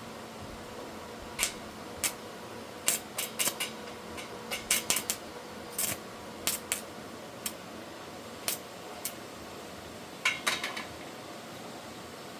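Irregular sharp clicks and light metallic clinks, small tools or metal parts being handled, scattered over about ten seconds above a steady faint hiss.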